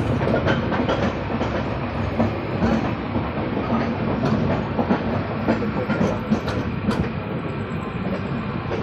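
Passenger train pulling out of a station, heard from on board: a steady running rumble with the wheels clacking irregularly over the rail joints.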